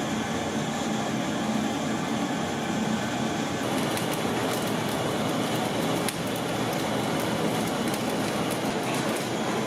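Steady rushing kitchen noise with scattered faint crackles from about four seconds in.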